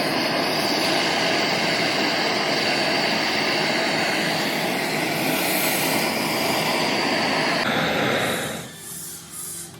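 A workshop machine running steadily with a hum of several steady tones, then stopping about eight and a half seconds in.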